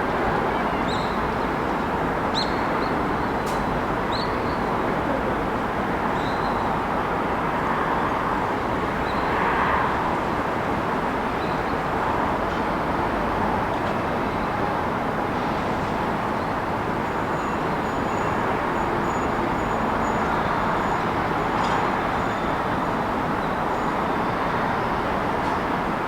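City street traffic: a steady, unbroken wash of passing vehicles. A few short, high chirps come in the first few seconds.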